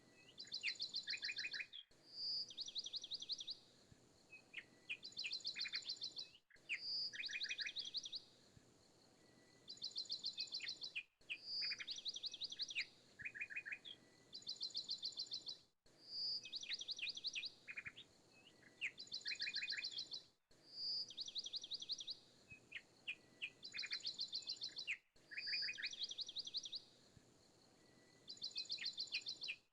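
Small songbirds chirping and trilling in quick high runs, the same few-second recording looped over and over, repeating about every four and a half seconds.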